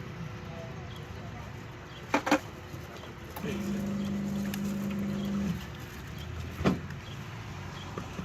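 A small electric motor hums steadily for about two seconds in the middle, with a few sharp clicks and knocks before and after, over a steady street background.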